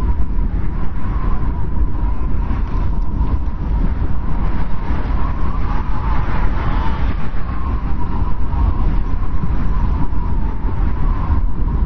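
Strong wind blowing, as in a snowstorm: a steady low rumble under a hiss, with a faint whistling tone that swells briefly about six seconds in.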